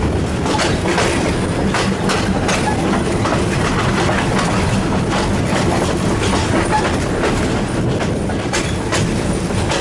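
Train running slowly over old, worn track, its wheels clattering over the rail joints in irregular clicks above a steady rumble, heard from inside a carriage.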